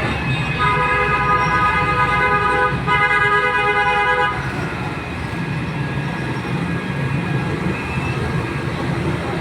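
A vehicle horn honks twice, a long blast of about two seconds and then a shorter one of about a second and a half, over the steady low rumble of running diesel engines.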